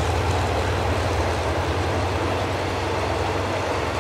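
Passenger express train passing, hauled by a GE diesel-electric locomotive: a steady low engine drone with the rolling rumble of the wheels on the rails.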